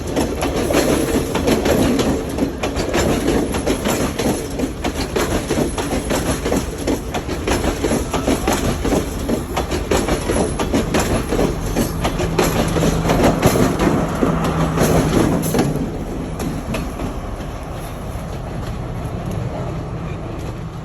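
Train running on rails, with wheels clacking over the rail joints over a steady rumble. The noise eases off about sixteen seconds in.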